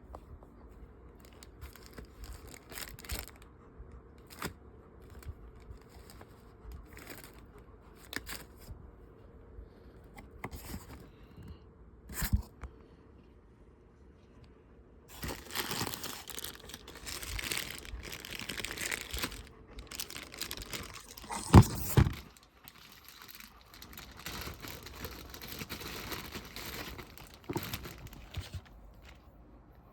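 Packaging being handled and torn open: scattered light clicks and knocks at first, then, about halfway through, a long stretch of tearing and crinkling rustle with one sharp knock in the middle of it.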